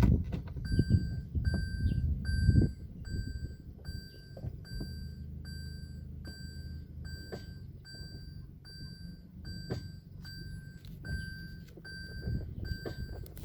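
Toyota Corolla Altis reverse-gear warning beeper sounding steady, evenly spaced high beeps, about one and a half a second. Loud low rumbling and knocks in the first three seconds, with a few sharp clicks later.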